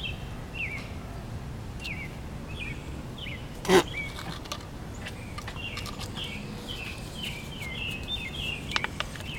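Birds chirping: short, high, downward-sliding notes repeating every half second or so over a steady low hum. About four seconds in there is a single brief sharp sound, louder than everything else.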